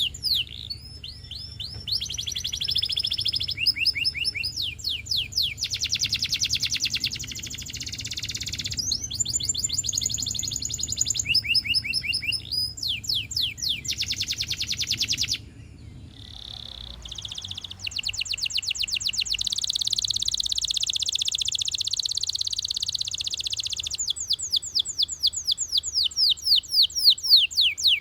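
Russian canary singing: long rolling runs of rapid repeated notes, each a quick downward sweep, changing from one trill to the next, with a brief pause a little past halfway.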